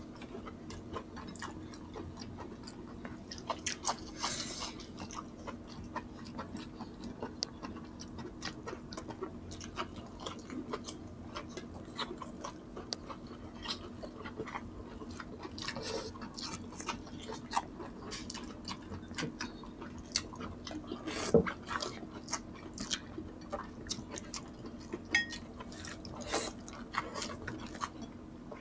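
Close-up chewing and biting as two people eat by hand: a steady run of short clicks and snaps from mouths and food, with one sharper snap about three-quarters of the way through.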